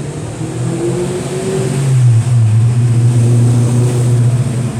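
Car engine running, with a steady low pitch that dips slightly as it gets louder about two seconds in.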